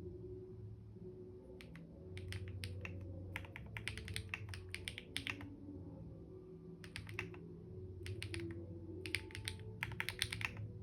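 Computer keyboard typing in bursts of quick key clicks, with pauses between them; the busiest runs are about two to five seconds in and again near the end.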